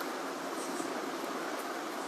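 Steady, even rushing noise with no distinct events, only a few faint high ticks.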